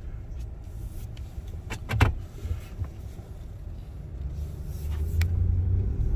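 Car running on the road, heard as a steady low rumble of engine and road noise with a couple of knocks about two seconds in, growing louder near the end.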